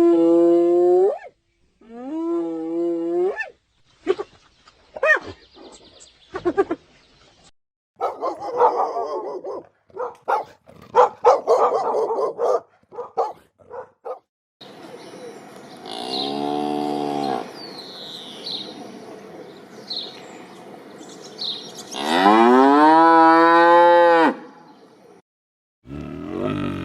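Cattle mooing: two moos at the start, a shorter lowing call in the middle, and a long moo near the end that rises and then holds. Between them come clicks, a stretch of rough noise and high chirps.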